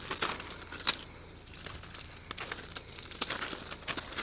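Footsteps crunching on gravel as people walk, in irregular short crunches.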